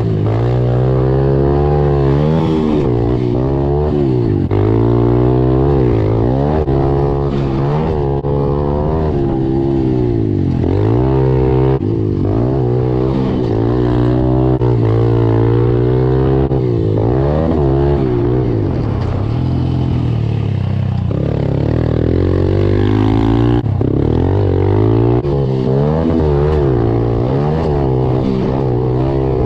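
Pit bike's small single-cylinder four-stroke engine revving hard and easing off over and over, its pitch climbing and dropping every second or two as it accelerates and shifts.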